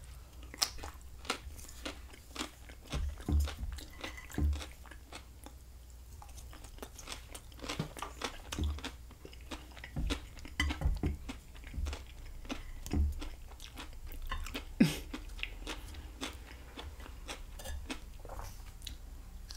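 Close-miked chewing and crunching of vegetables such as green beans, irregular wet crunches and bites, described as very crunchy.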